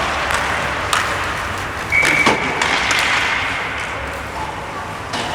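Ice hockey game in an arena: steady crowd murmur with sharp clacks of sticks, puck and boards, and a brief high whistle about two seconds in.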